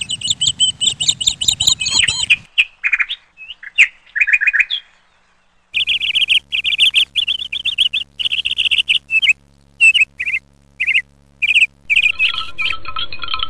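Bird chirping in quick repeated trills that stop and start abruptly, with a dead-silent gap about five seconds in. A faint low steady hum sits under the later chirps.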